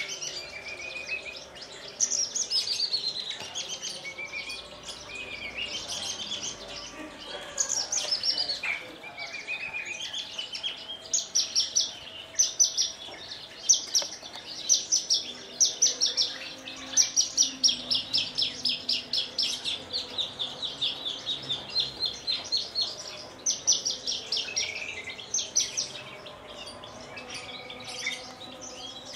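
Javan bush lark (branjangan) singing: a long, varied song of quick chirps and trills, with a long run of rapidly repeated notes through the middle.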